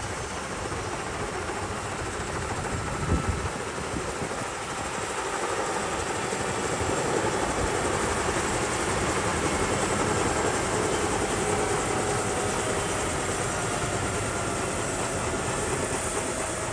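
Airbus EC145T2 helicopter in flight, its rotor and turbine noise steadily building to a peak around the middle and easing off slightly near the end.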